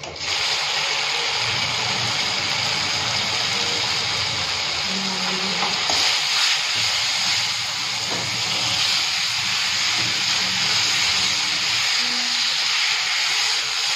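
Cut pieces of steamed fara (rice-flour dumplings) frying in hot oil and spices in a kadhai. The sizzle starts suddenly as the pieces drop in and stays loud and steady while they are stirred with a spatula.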